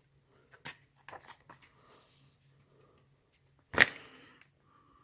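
Paper pages of an old catalog rustling and crackling as they are handled and turned, with one sharp knock nearly four seconds in.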